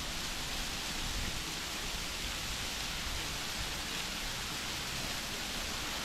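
Steady rushing hiss of a waterfall, water cascading down a rock slide.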